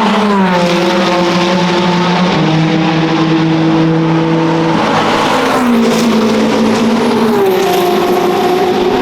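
Race car engines running hard on track, the engine note falling in steps and rising again with gear changes.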